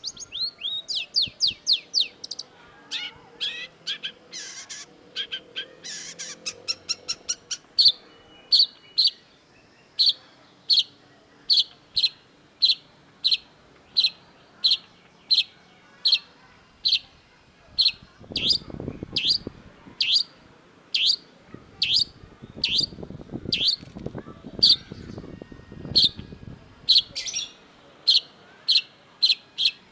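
Long-tailed shrike calling: a quick run of sharp notes at first, then a steady series of short, sharp, falling notes a little more than once a second. A lower rasping rattle sounds twice in the second half.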